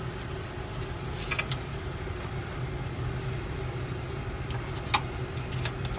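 A steady low hum runs throughout, with a few sharp clicks of hand tools on metal fittings, the loudest about five seconds in.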